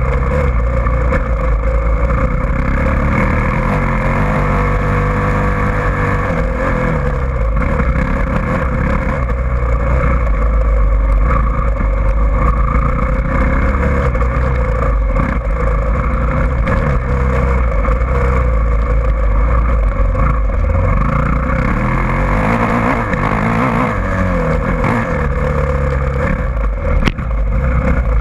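Motocross bike engine running as it is ridden, its pitch repeatedly rising and falling as the throttle is worked.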